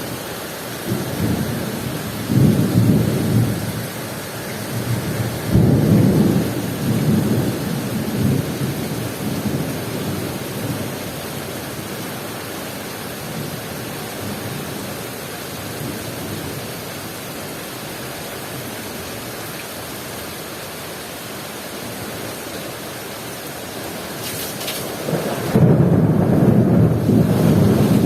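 Heavy rain falling steadily during a thunderstorm, with rolling thunder. The thunder surges twice in the first several seconds, dies down to the rain alone, then swells loudly again a few seconds before the end.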